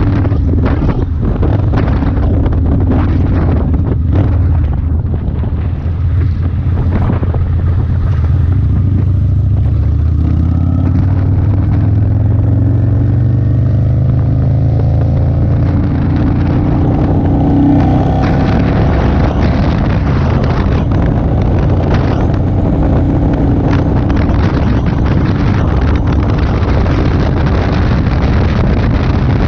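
Motorcycle engine running at road speed with heavy wind buffeting on the microphone; about a third of the way in the engine note climbs steadily as the bike accelerates, then holds at a higher, even pitch.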